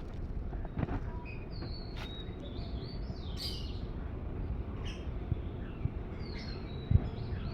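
Small birds chirping in short, scattered high calls over a steady low background rumble, with a few sharp knocks, the loudest near the end.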